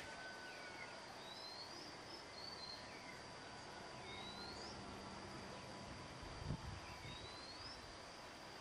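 Quiet rural outdoor ambience: a bird gives short rising chirps every few seconds over a faint steady high-pitched tone. There is a brief low thump about six and a half seconds in.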